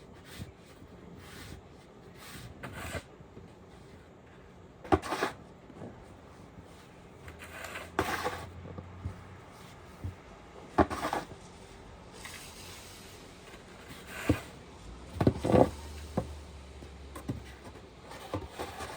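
A series of irregular knocks and bumps a few seconds apart, with some rubbing or scraping between them, like hard objects being handled and set down.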